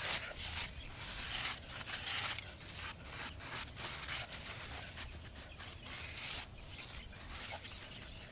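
Rough scraping strokes on wood, repeated irregularly, as a tool rasps or shaves the surface.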